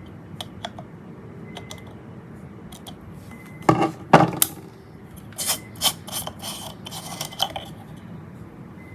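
Small hard objects being handled on a work surface: a few light clicks, two loud knocks a little before halfway, then a run of short scraping, rustling strokes.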